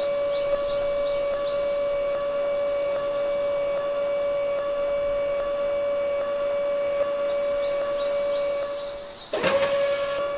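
A small electric motor running with a steady high whine. About nine seconds in it dips away briefly, then cuts back in abruptly with a short clattering burst.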